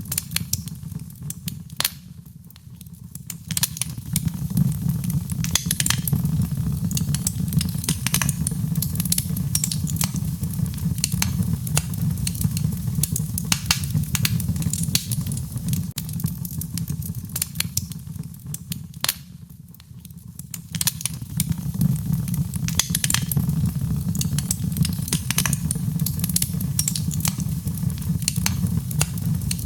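Wood fire crackling, with many sharp pops over a low steady rumble. The sound drops away briefly twice, about two seconds in and again about nineteen seconds in.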